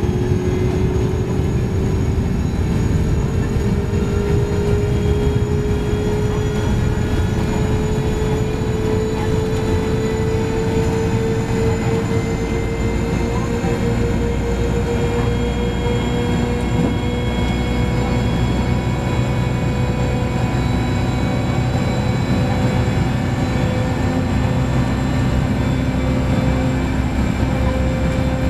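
Gas turbines and waterjet propulsion of a Boeing 929 jetfoil heard inside the passenger cabin: a steady low rumble with a whining tone that rises slowly in pitch.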